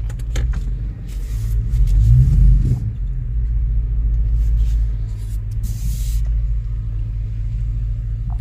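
A 2005 Chevrolet Tahoe's 5.3-litre V8 running smoothly with a steady low rumble, swelling briefly about two seconds in. The engine runs evenly now that its misfiring has been cured, "like a brand new truck."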